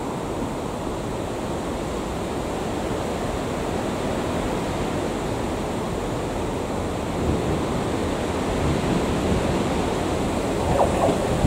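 Class 158 diesel multiple unit approaching on curving track: a steady rushing noise that grows louder over the last few seconds, with a whine coming in near the end.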